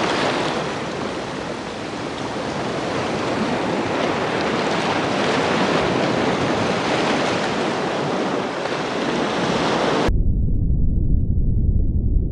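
A steady rushing noise, like running water or surf, with no animal calls in it; it cuts off abruptly about ten seconds in and a low rumble takes over.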